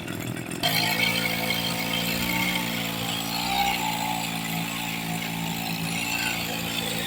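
Small engine of a motorized knapsack sprayer running steadily. It gets louder, with a hiss above it, about half a second in.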